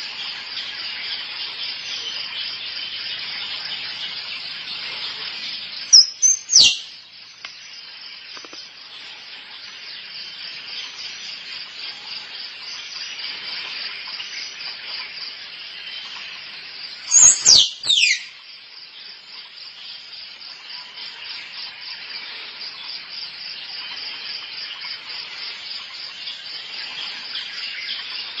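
Squirrel calls: two short bursts of a few sharp, high calls that slide quickly downward, the first about six seconds in and the second about eleven seconds later. A steady, shrill chirring of insects runs underneath.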